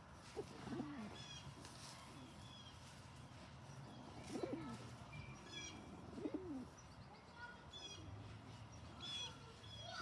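Domestic pigeon cooing three times, each a short low call that rises and then falls, from a bird that is being grumpy and bullying. Short high chirps from other birds come in between.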